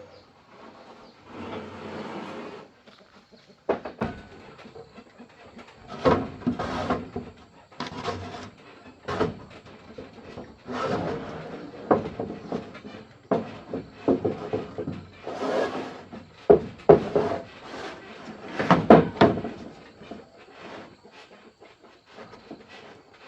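Irregular knocking and scraping of wood and tools being handled, with a few sharp knocks among longer rubbing and sliding noises.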